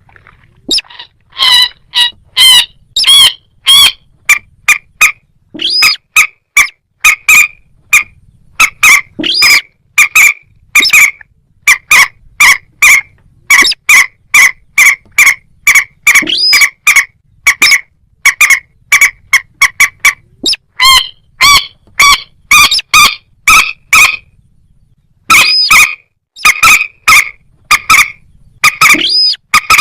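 Rail calls, of the moorhen and crake kind: a long series of loud, short, harsh pitched notes, about one or two a second, in bouts with brief pauses.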